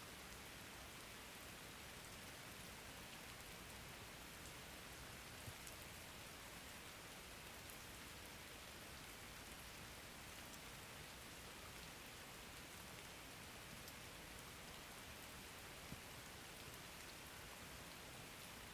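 Faint, steady rain falling, with a few single louder drops ticking now and then.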